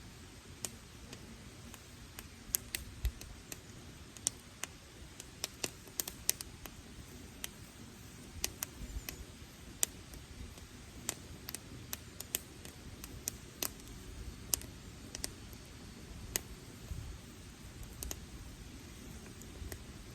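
Wood campfire crackling: irregular sharp snaps and pops, at times several a second, over a low steady rumble.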